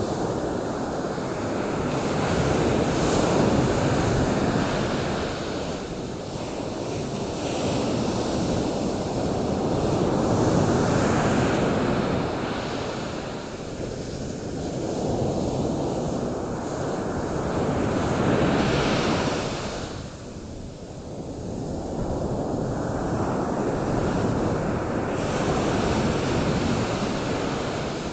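Ocean surf: waves breaking and washing in, each surge swelling and then fading every few seconds.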